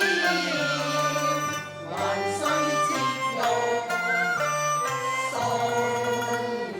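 Cantonese opera music: a traditional Chinese ensemble playing a continuous melodic passage of held and gliding notes.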